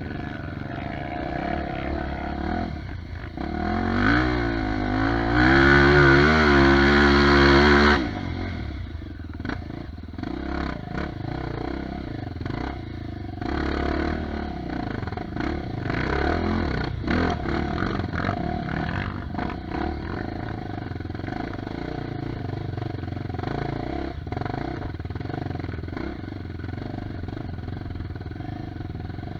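Dirt bike engine revving hard, rising in pitch and loudest about four to eight seconds in, then running on at changing throttle with clattering and knocks over rough ground.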